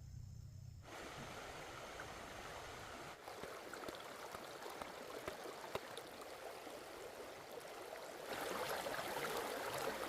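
Water flowing and trickling steadily, with small scattered ticks. It grows louder for the last couple of seconds. A low hum sounds briefly at the start.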